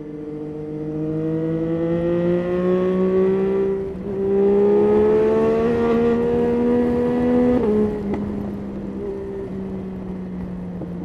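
Yamaha Tracer 9's 890 cc three-cylinder engine pulling under acceleration, its note climbing, with a shift up about four seconds in and a second climb. Near eight seconds the throttle closes and the engine settles to a lower, steady note.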